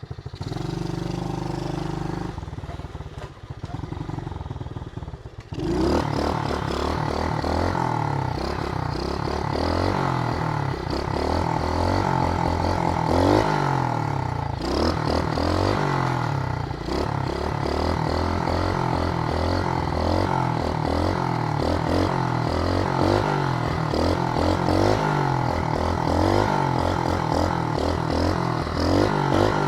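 SSR110 pit bike's small single-cylinder four-stroke engine running hard as the bike is ridden, its pitch rising and falling again and again with throttle. It starts loud about six seconds in, after a quieter opening few seconds.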